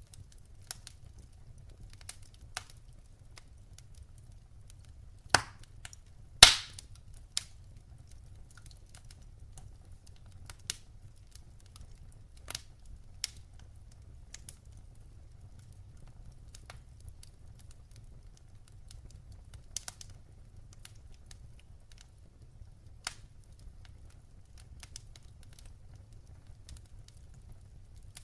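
Firewood burning in a fireplace: scattered sharp crackles and pops over a low steady rumble, with two louder pops about five and six seconds in.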